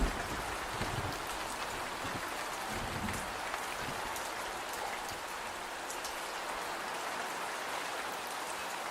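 Steady rain falling, with a few faint sharp ticks and a couple of soft low rumbles in the first few seconds.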